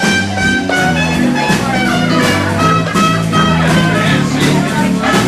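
Live band playing an instrumental swing-blues passage with a steady beat and a moving bass line, with no vocals.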